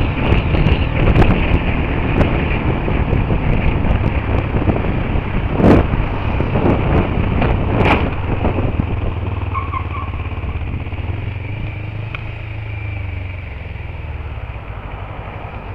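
Motorcycle riding, with sharp bangs about six and eight seconds in as its clutch fails and locks up the bike; after them the bike's noise fades steadily as it slows.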